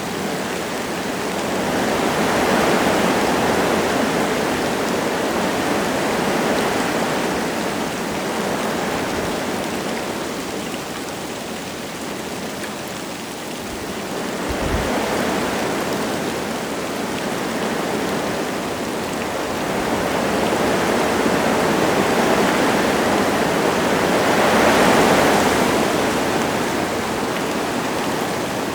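Wind gusting through forest trees with light rain falling, swelling and easing in three long gusts. A short low thud about halfway through.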